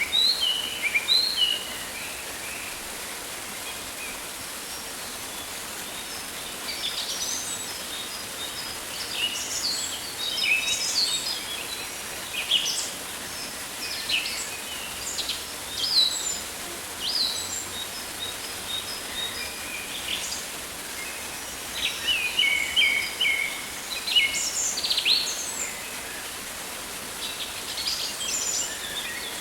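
Rainforest ambience: birds chirping and whistling in quick bouts over a steady background hiss, with short quiet spells between the bouts.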